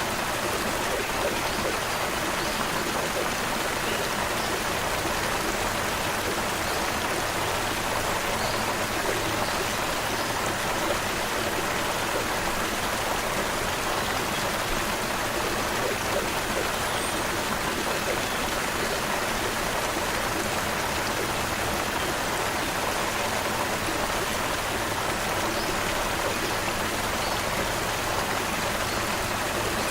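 Creek water flowing steadily, a continuous even rush.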